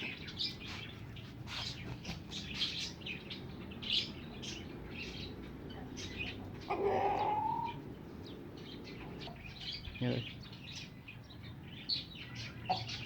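Many caged birds chirping, with short high chirps throughout and a louder rising call about seven seconds in.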